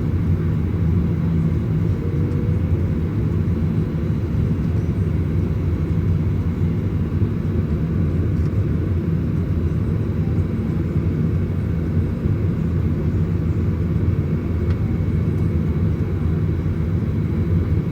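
Steady cabin rumble of a Boeing 737-900ER's CFM56 engines at low power before the takeoff roll, with a faint steady whine above it, heard inside the cabin.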